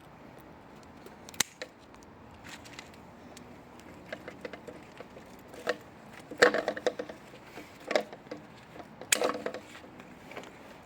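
Aubergine plant being handled while fruits are picked: scattered clicks and snaps with rustling of leaves and stems. A sharp click comes about a second and a half in, and louder crackling rustles come around six, eight and nine seconds in.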